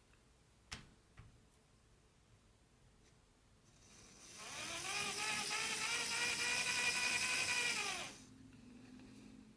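A click, then a small electric model-train motor winds up with a rising whine, runs steadily for about three seconds and cuts off suddenly, leaving a faint low hum.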